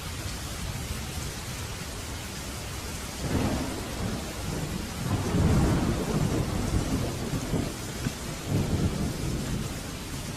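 Steady heavy rain with a roll of thunder that begins about three seconds in, swells to its loudest midway, rumbles on in a few waves and fades back into the rain near the end.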